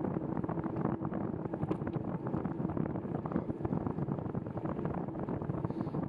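Wind buffeting the microphone of a camera on a moving bicycle, a steady rushing noise with constant fine crackling and a faint low hum underneath.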